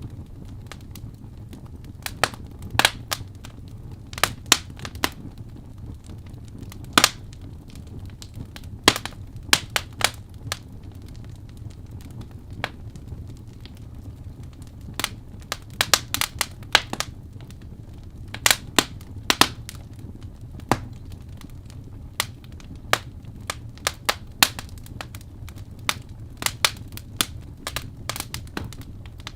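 Birch logs burning in a fireplace, crackling with irregular sharp pops over a steady low rush of flame.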